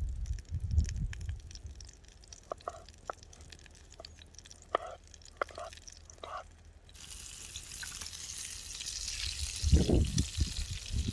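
Water drops plopping, a handful spread over a few seconds. About seven seconds in a steady hiss starts, with a few low thumps near the end.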